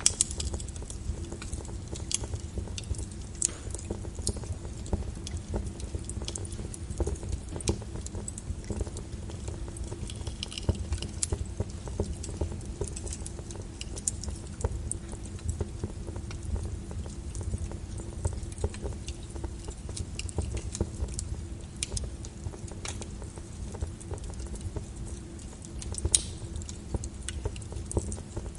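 Wood fire crackling: irregular sharp pops and snaps, one louder pop near the end, over a low steady rumble and a faint hum.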